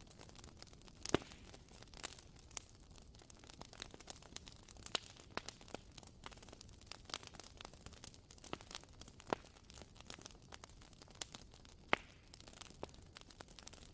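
Crackling wooden wick of a WoodWick candle burning: faint, irregular pops and clicks, with two sharper pops, one about a second in and one near the end.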